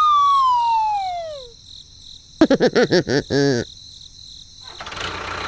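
A whistle sound effect sliding steadily down in pitch, then a quick run of short, warbling, voice-like chirps, with a steady noise setting in near the end.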